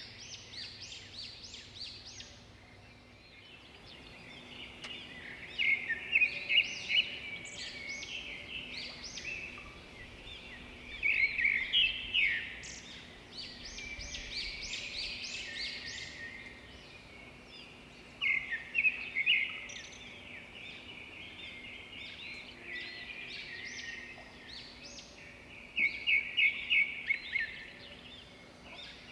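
Songbirds singing with continuous twittering. A loud phrase of rapid repeated notes comes back four times, roughly every seven seconds.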